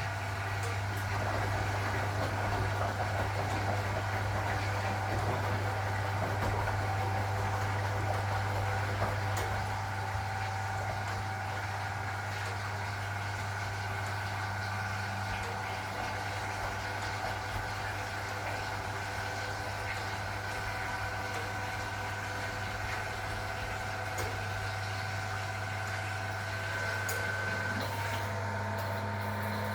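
1961 AEG Lavamat Noris washing machine running with a steady hum and several steady whining tones over it; the sound shifts near the end.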